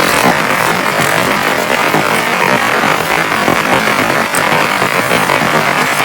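Heavy rain falling, a steady dense hiss with scattered sharper drop hits.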